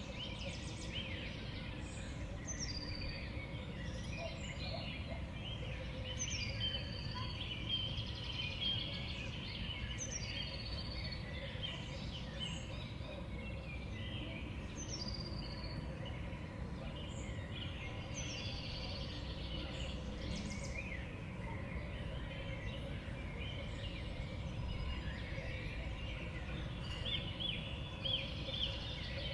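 Small songbirds at a winter seed feeder chirping and twittering, with one high call sliding down in pitch repeated about every two seconds, over a steady low background rumble.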